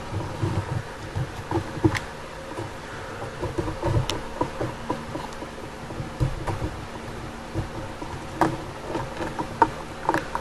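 Irregular small clicks, taps and rustling of hands handling a thin wire and a model building as the wire is threaded through a hole into the baseboard, over a steady low hum.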